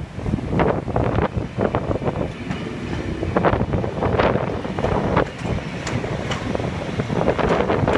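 Network Rail test train coaches rolling past at low speed, their wheels clattering over the rail joints in uneven bursts above a steady rumble. Light wind buffets the microphone.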